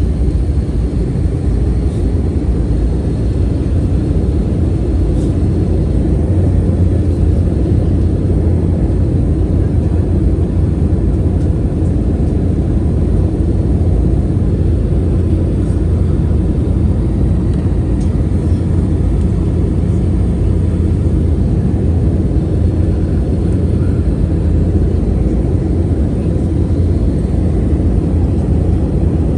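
Steady low rumble of a jet airliner's engines and rushing air, heard from inside the passenger cabin, with a faint high steady tone above it.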